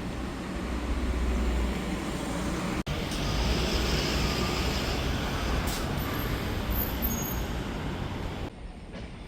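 Steady road traffic noise with a heavy low rumble, broken by an abrupt cut about three seconds in and dropping to a quieter background near the end.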